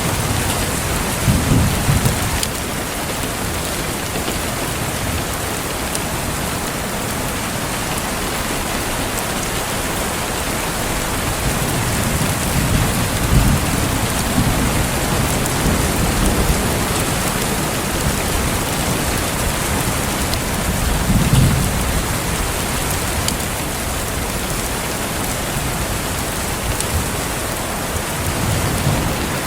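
Steady rain with low rumbles of distant thunder swelling several times: about a second in, through the middle, and near the end. A few faint pops, likely from a crackling fireplace, sound over the rain.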